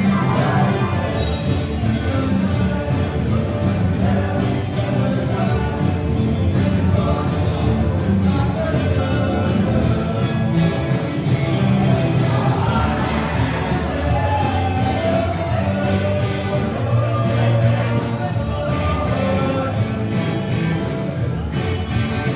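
Live rock and roll band playing a song with a singer, over a steady drum beat.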